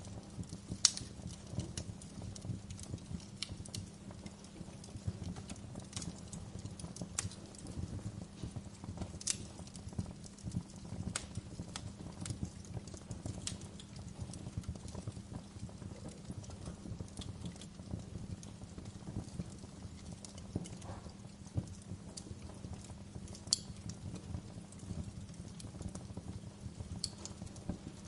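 Wood fire crackling: irregular sharp pops and snaps over a low, steady rumble of the flames, with one louder pop about a second in.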